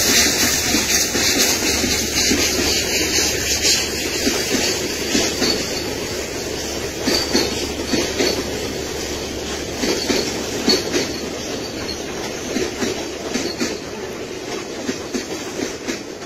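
Passenger coaches of a steam-hauled train rolling past, their wheels clattering over the rail joints, gradually fading.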